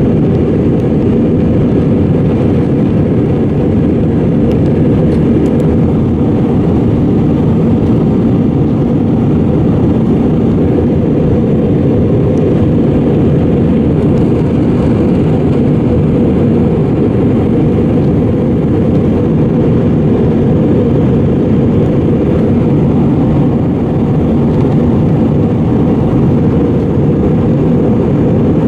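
Steady, even rumble of an Airbus A320's engines heard from inside the passenger cabin, with most of the sound low and no change in level.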